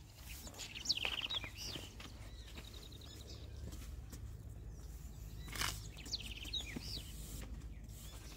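A songbird singing a short phrase of quick trilled notes and swooping whistles, twice, about a second in and again around six seconds, with a brief high trill in between. Underneath are scattered light scrapes from a rake and a hand brush on soil and concrete, and a steady low rumble.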